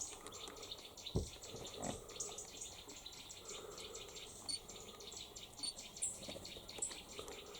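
Fast, rhythmic high-pitched chirping, about five or six pulses a second, with a few short higher chirps over it and two dull knocks in the first two seconds.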